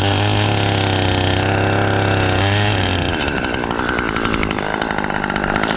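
Chainsaw running, its engine note steady for about three seconds and then changing to a rougher, busier sound.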